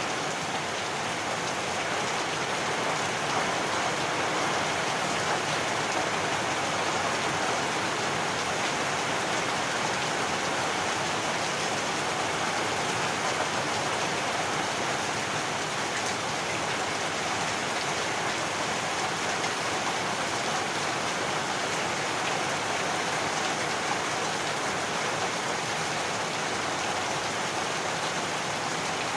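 Heavy rain falling steadily, an even hiss of rain with no thunder.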